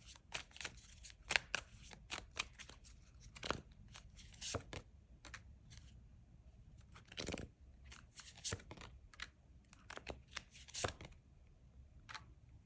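A deck of tarot cards being shuffled and handled: short slaps, clicks and swishes of cards at irregular moments.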